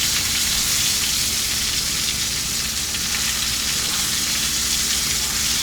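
Salmon fillet frying skin-side down in a hot pan, a steady sizzle, the skin scorching against the pan.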